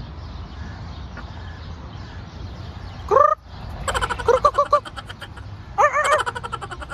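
Harsh bird calls: one loud rising call about three seconds in, then two runs of short, quick calls.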